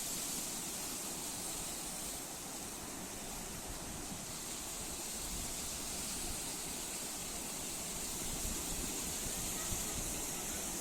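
Sea waves washing ashore: a steady hiss of surf that swells and eases slightly.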